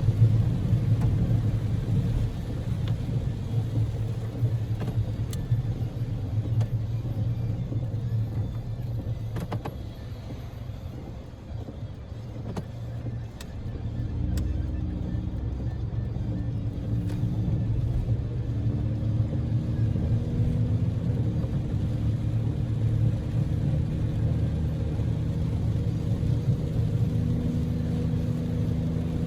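Cabin sound of a Daihatsu Move L150S on the road: a steady low rumble of engine and road noise that eases off for a while near the middle. Then the engine's hum comes up and rises in pitch in a few steps as the car accelerates.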